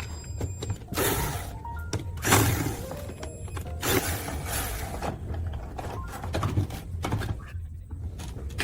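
Irregular knocks, clanks and scraping from tools and parts being handled while an old washing machine is worked on, over a steady low hum.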